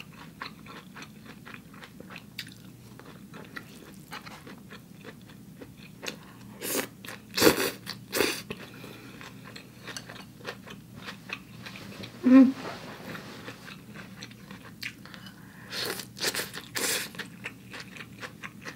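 Close-miked chewing and biting of food with soft, crunchy bites and mouth clicks. The loudest crunches come in clusters about seven seconds in and again about sixteen seconds in, with a short vocal hum about twelve seconds in.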